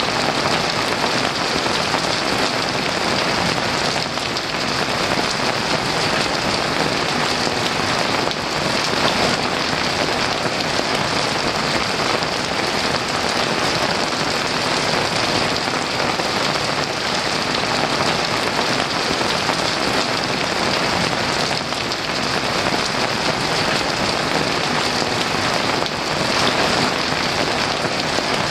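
Heavy rain falling steadily, a dense, even hiss with no break or swell.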